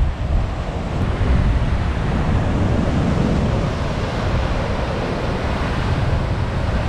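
Heavy ocean surf running steadily, with wind buffeting the microphone.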